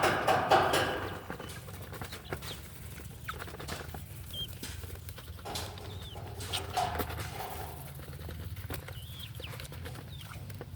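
Bird calls: a loud pitched call fading over the first second, then a few short, high chirps spaced a couple of seconds apart over a low steady hum.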